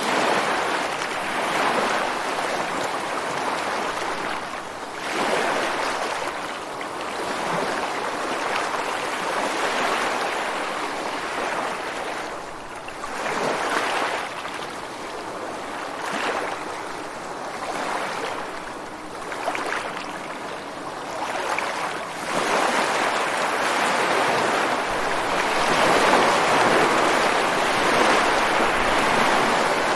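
Ocean waves breaking and washing against shore rocks, a continuous rushing surf that swells and ebbs every few seconds. It grows louder and fuller in the last third.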